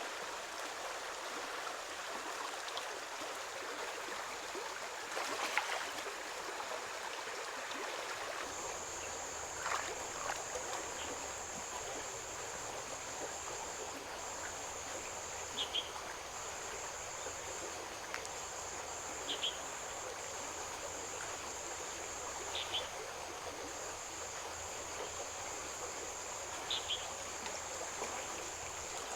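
Flowing stream water rushing steadily. A steady high-pitched buzz joins about a third of the way in, with a few short high chirps and the odd light knock.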